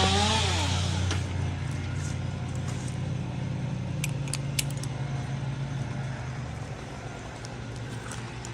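Chainsaw idling with a steady low hum, its pitch dropping slightly about halfway through. A few light metallic clicks about four seconds in.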